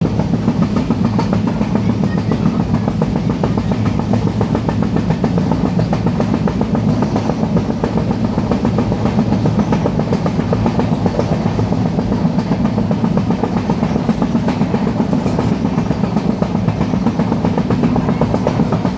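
Train running at speed: a steady, continuous rumble with a rapid rattle, without a break.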